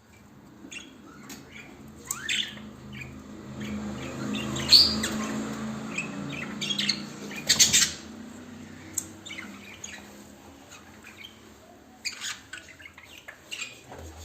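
Lovebirds chirping and squawking in short, sharp calls, busiest in the middle, with a low hum underneath for the first half.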